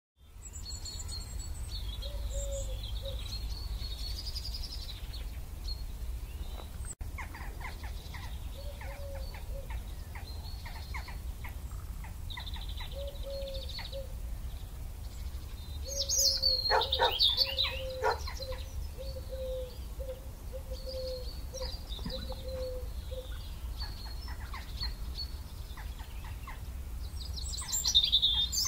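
Birds chirping and calling, with a louder flurry of calls about sixteen seconds in and again near the end, over a steady low rumble.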